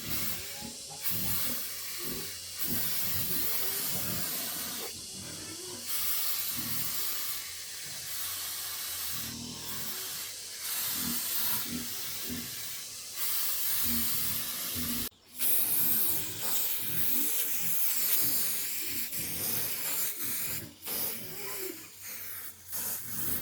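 A steady hiss with faint low murmurs beneath it, broken by a brief sudden dropout about fifteen seconds in.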